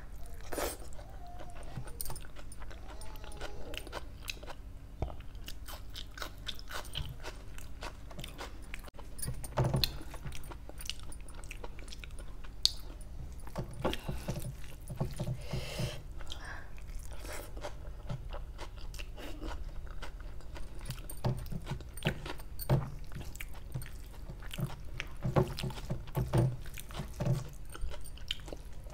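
Close-miked chewing of rice and chicken kofta curry eaten by hand, with many small wet mouth clicks throughout, and fingers mixing the rice on a steel plate.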